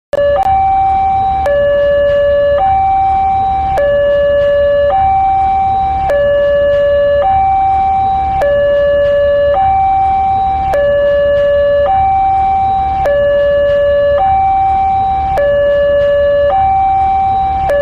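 Electronic two-tone railway level-crossing warning alarm, alternating between a lower and a higher tone about once a second with a click at each change.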